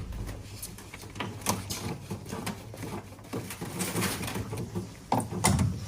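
Scattered clicks and knocks of a washing machine being handled and inspected, with a louder knock near the end.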